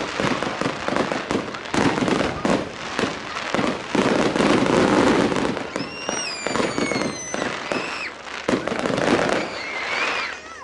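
Fireworks display going off in a dense run of bangs and crackling. Several high whistles fall in pitch about six seconds in. The noise stops abruptly at the end.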